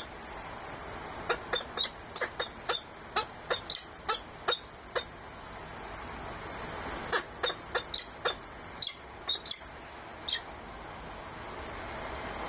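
Falcon giving short, sharp calls in two quick series of about a dozen calls each, with a pause of about two seconds between them. A steady hiss runs underneath.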